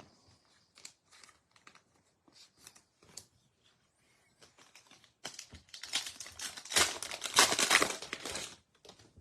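Light clicks of trading cards being handled, then a baseball-card pack's wrapper being torn open and crinkled for about three seconds, starting about five seconds in.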